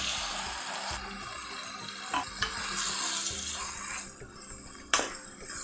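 Chopped onion, tomato and capsicum sizzling in oil in a non-stick kadai as a ground spice paste is poured in and stirred with a wooden spatula. The sizzle dies down after about four seconds, and the spatula knocks lightly on the pan a couple of times.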